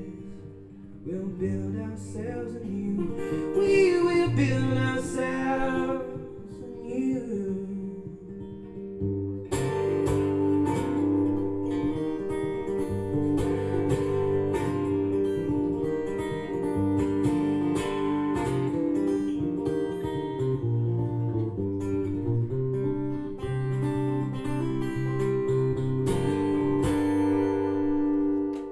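Acoustic guitar strumming chords in a song's instrumental outro, with a melody line gliding in pitch above it over the first several seconds. The strumming thins briefly about eight seconds in, then comes back fuller and steady until it stops at the end.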